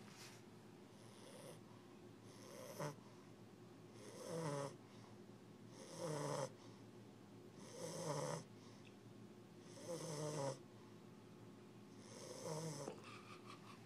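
English bulldog puppy snoring in its sleep, about one snore every two seconds, each lasting about a second.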